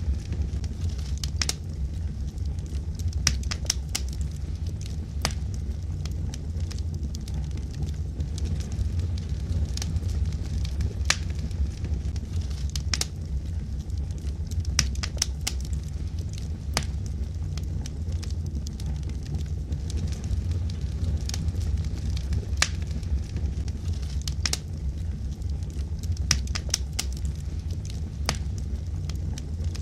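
Wood logs burning in a fireplace: a steady low rumble of flames with irregular sharp crackles and pops scattered throughout.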